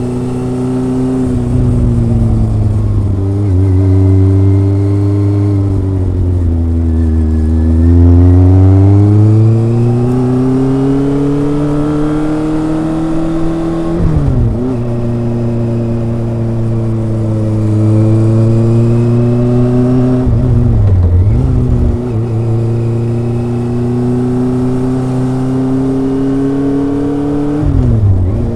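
Kawasaki ZRX four-cylinder motorcycle exhaust under way, the engine note falling and rising with the throttle. Brief sharp dips mark gear changes about halfway through, around three-quarters in, and near the end.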